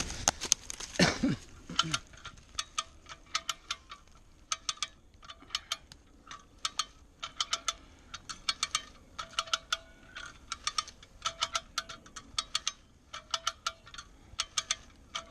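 Hand-cranked come-along cable winch ratcheting under load, its pawl clicking sharply in quick groups of three to five as the handle is pumped, with short pauses between strokes. A short falling creak sounds about a second in.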